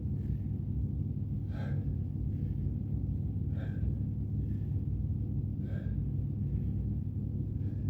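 A person breathing hard, one audible breath about every two seconds, over a steady low rumble.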